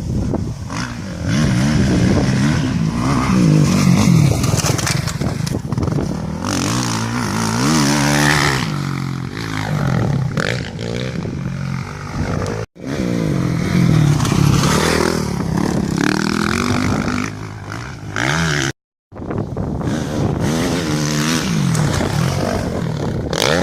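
Suzuki RM-Z450 single-cylinder four-stroke motocross engine revving up and dropping back over and over as the bike is ridden through corners, with a rushing, scraping noise over it. The sound cuts out briefly twice, about 13 and 19 seconds in.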